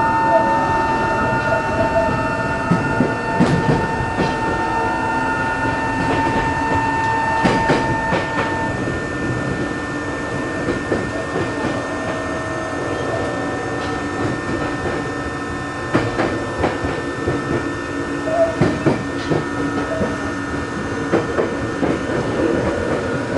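Inside a Tokyo Metro 03 series train with shunt-field chopper control, running: the chopper and traction motors whine in several steady tones over the rumble of the wheels and rail-joint clicks. One high tone cuts off about eight seconds in. This car's motor makes a slight abnormal noise.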